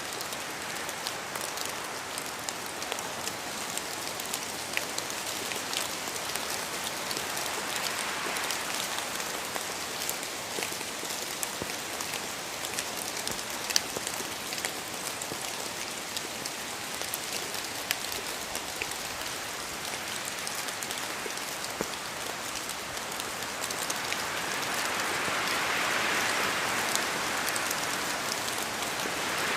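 Steady rain falling, with many separate drops tapping throughout, growing louder in the last few seconds.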